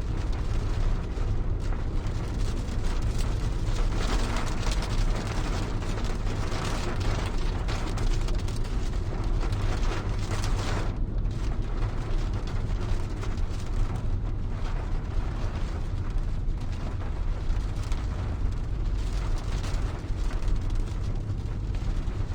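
Rain falling on a car's roof and windows, heard from inside the car: a steady, dense patter over a deep rumble.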